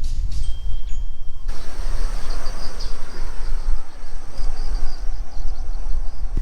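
Wind buffeting the microphone with a loud, uneven low rumble. About a second and a half in, the sound changes abruptly and a high, pulsing chirring joins the rumble.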